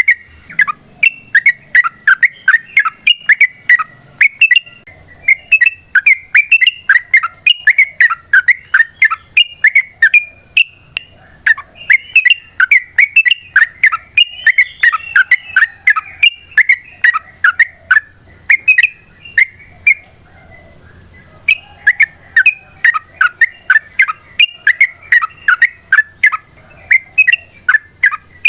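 Yellow-vented bulbul (trucuk) singing a long, fast run of sharp, bubbling chirps, several a second, the rapid 'ropel' song used to provoke rival males. The run breaks off briefly about two-thirds of the way through, then resumes.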